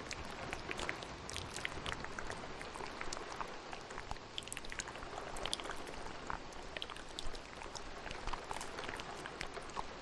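Steady rain with many short, wet mouth clicks and smacks layered over it, scattered irregularly.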